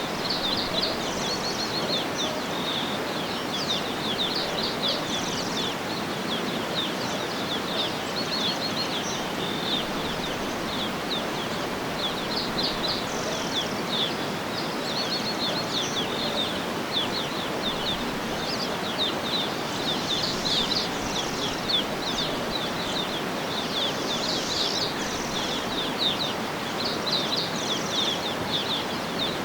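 Many songbirds chirping and trilling in quick, overlapping phrases over a steady, even background hiss of outdoor noise.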